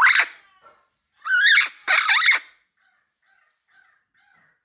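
Pet parrot squawking: a harsh call at the start and two more loud rasping calls about a second and two seconds in, then a string of soft short chirps.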